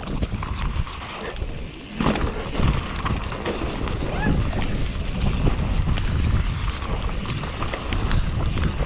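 Downhill mountain bike descending a wet, muddy trail: wind rushing over the camera microphone, with many rattles and knocks from the bike over rough ground.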